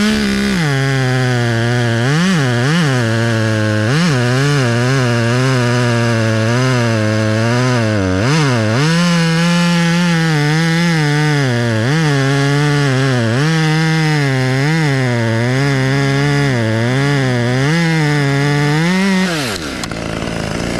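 Two-stroke chainsaw cutting wood, its engine pitch repeatedly sagging under load and picking back up. The throttle is released about nineteen seconds in and the engine winds down.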